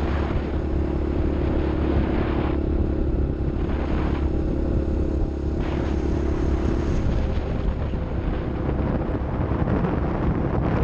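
Off-road vehicle engine running steadily, with a steady drone and a held hum that fades out about seven seconds in.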